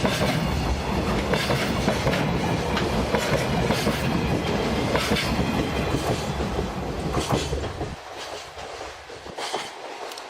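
Freight train wagons rolling past, their wheels clacking over the rail joints in a regular rhythm over a steady rumble. About eight seconds in the rumble drops away sharply, with fainter clacks after.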